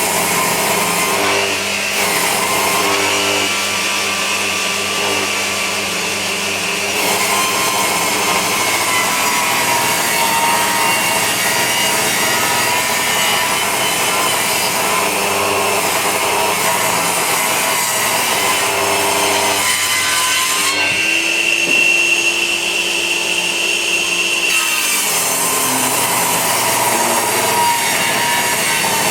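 Power saw cutting lengthwise through 2x4 lumber (resawing), running steadily under load with a whining note that shifts in pitch now and then as the cut goes on.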